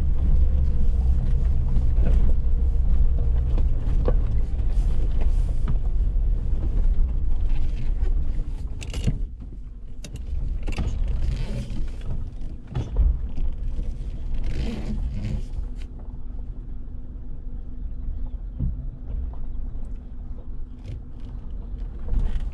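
Suzuki Jimny 4x4 engine rumbling at low speed on a rough off-road track, with scattered knocks and bumps from the vehicle jolting over the surface. The engine noise drops noticeably about halfway through and stays quieter.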